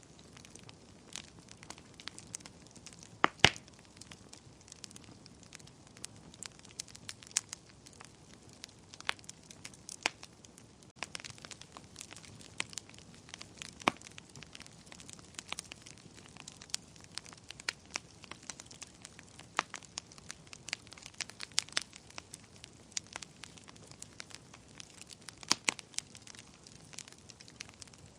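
Wood fire burning in a fireplace: irregular crackles and pops over a soft steady hiss, with a couple of louder snaps about three seconds in and near the end.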